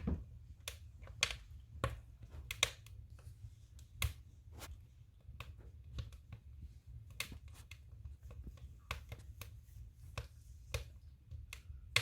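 Firewood burning in a stove, crackling with irregular sharp pops of varying loudness over a low steady rumble.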